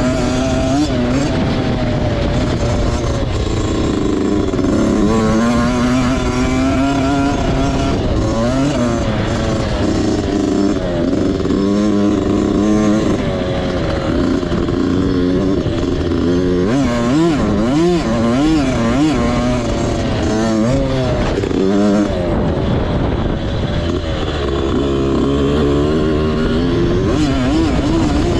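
Motocross bike engine being ridden hard, its revs climbing and dropping again and again as the throttle is opened and shut.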